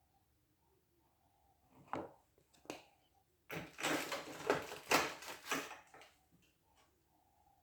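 Kitchen preparation sounds: two light knocks, then about two and a half seconds of rapid scraping and clattering from about three and a half seconds in, then a few faint ticks.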